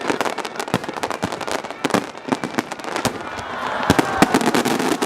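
Fireworks display going off in rapid succession: dense crackling pops and bangs, many reports a second.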